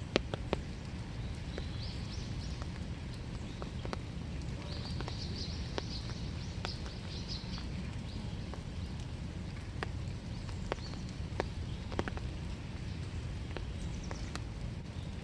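Steady winter rain with single drops tapping close by, irregularly. Birds twitter high and briefly twice in the first half.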